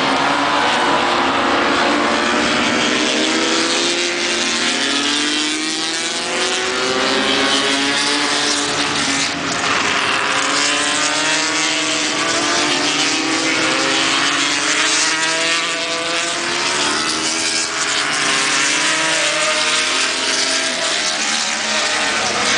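Several 125cc single-cylinder two-stroke Grand Prix racing motorcycles running at race speed. Their overlapping engine notes rise and fall continuously as the bikes pass and shift gear.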